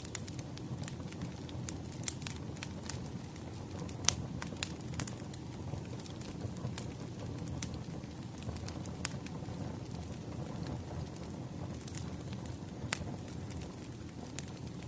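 Wood fire crackling: a steady low rumble of burning logs with irregular sharp pops and snaps, the loudest about four seconds in.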